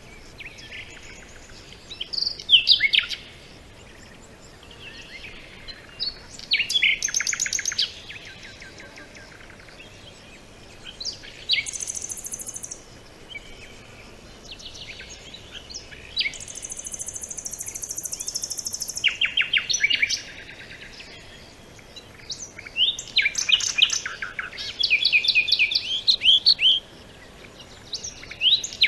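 Several songbirds singing in separate phrases of quick chirps and rapid trills, with quiet gaps between them. Twice there is a longer, very high, thin buzzing note.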